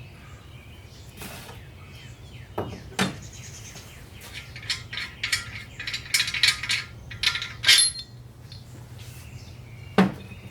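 Metal engine parts and tools clinking and knocking as they are handled on a workbench: a couple of knocks early, a rapid run of light clinks in the middle and one sharp knock near the end, over a steady low hum.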